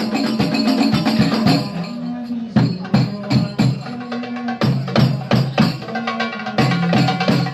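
Several darbuka goblet drums played together in a fast hand-drum rhythm. For the first two seconds the strokes run in a dense roll. After that they thin out into spaced, accented hits with deep ringing bass tones between sharp slaps.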